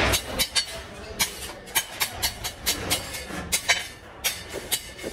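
Sharp metallic taps and clinks, irregular at roughly two to three a second, some ringing briefly, from iron cage wire being worked by hand.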